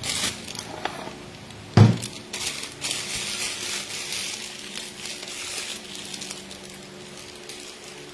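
Things being handled on a work table: crinkling and rustling, with one dull thump about two seconds in, then quieter handling.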